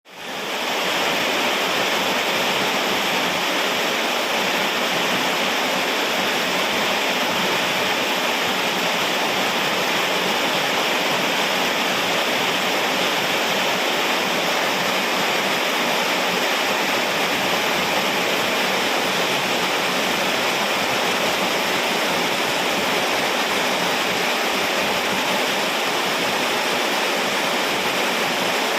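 Steady, even hiss of heavy rain, fading in over the first second.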